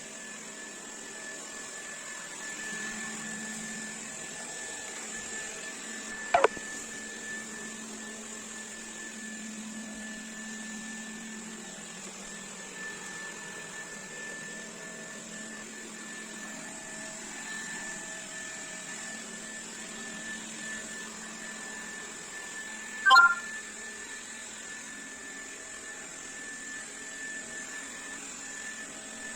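Xiaomi Dreame D9 Max robot vacuum running steadily, a constant whirr with a high tone over it. Two short sharp knocks stand out, one about six seconds in and one a little past two-thirds of the way through.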